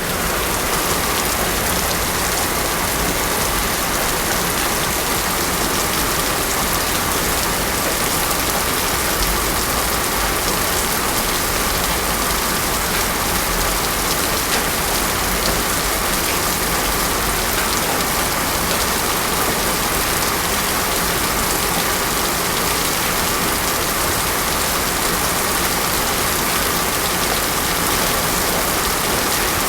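Heavy rain falling steadily on a road surface, an even, unbroken hiss of rain.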